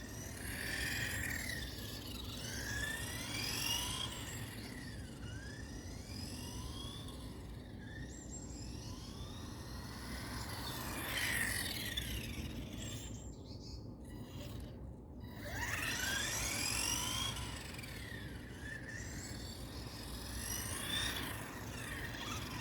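Carisma GT14 RC car's electric motor and drivetrain whining, rising and falling again and again as the car is driven around in short bursts of throttle.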